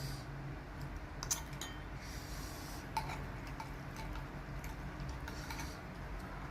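Eating sounds from a bowl of noodle soup: a few light clicks of utensils against the bowl among chewing and breathing noises, over a low steady hum.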